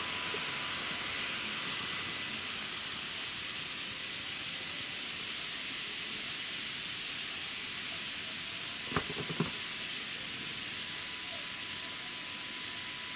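N-gauge model train running on the layout: a steady hiss with a thin, steady whine. About two-thirds of the way in, two sharp clicks come about half a second apart.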